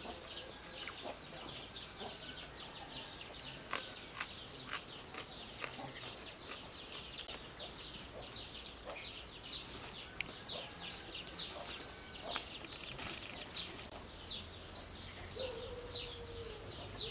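A small bird calling over and over with short, high, falling chirps, about two a second, becoming clearer in the second half. A few soft clicks sound a few seconds in.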